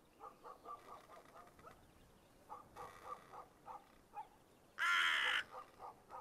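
Crow cawing: one loud caw about five seconds in and a fainter one around three seconds in, with short quieter calls in between.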